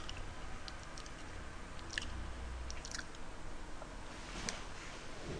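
Close-miked chewing of food, with a few sharp clicks scattered through.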